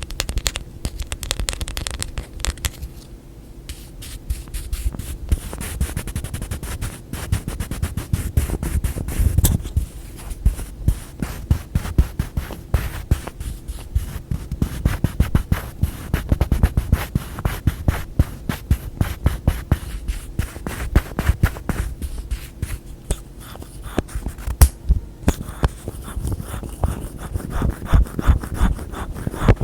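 Fast, close-miked tapping and scratching with fingertips and nails on objects, in dense flurries of many small taps a second.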